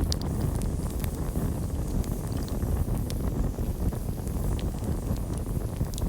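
Campfire burning: a steady low rumble of flames with scattered sharp crackles and pops, and crickets chirping faintly high in the background.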